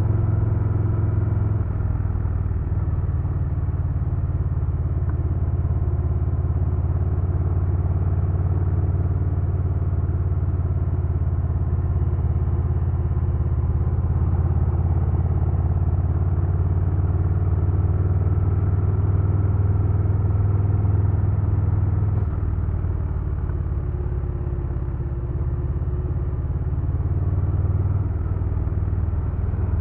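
2022 Harley-Davidson Low Rider S's Milwaukee-Eight 117 V-twin running under way, with a steady deep exhaust note. The engine note shifts about two seconds in and again around twenty-two seconds, where it briefly drops in loudness.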